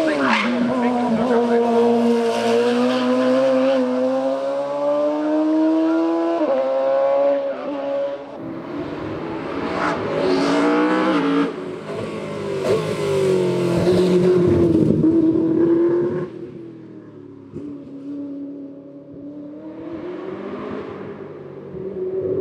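Hill-climb racing car's engine at high revs, its pitch climbing and dropping sharply at each gear change, several times over. It then fades, and another engine note comes in near the end.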